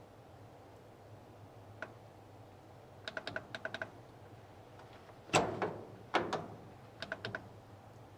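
Quick runs of light, ringing taps, a few a second, and a few heavier knocks, the loudest about halfway through.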